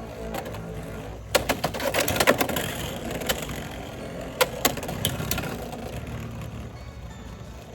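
Beyblade X spinning tops battling in a stadium: a steady spinning whir with a cluster of sharp clacks as the tops hit each other, from about a second and a half in until just past five seconds.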